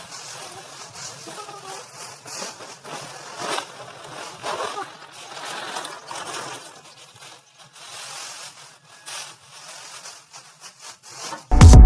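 Faint outdoor background noise with a few soft clicks, then loud electronic music starts abruptly near the end.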